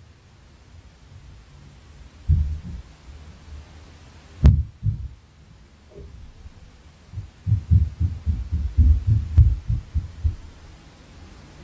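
Inter-floor impact noise from the flat upstairs, heard through the ceiling as dull thuds. Single thuds come about two seconds and four and a half seconds in, the second with a sharp knock on top, then a quick run of thuds, several a second, for about three seconds near the end.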